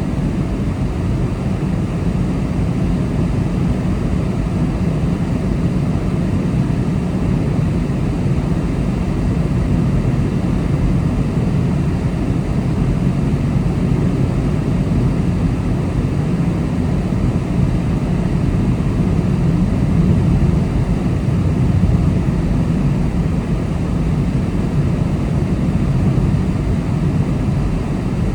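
Steady road and engine noise from a car driving at speed, a low rumble heard inside the cabin.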